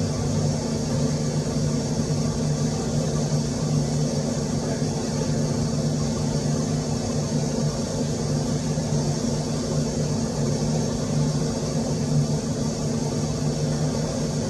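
A steady low machine hum that holds the same pitch throughout, over a constant hiss.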